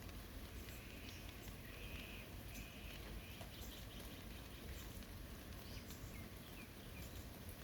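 Steady light rain falling in a forest, a soft even hiss with scattered drip ticks and a low rumble underneath. Faint short bird chirps come and go throughout.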